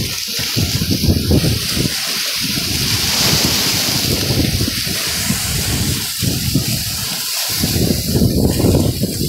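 Strong wind buffeting the microphone in gusts, over rushing, splashing sea water.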